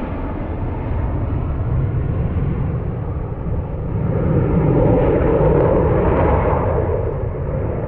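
Jet aircraft engine noise: a loud, rough rumble that swells to its peak about five seconds in and then eases off as the aircraft passes.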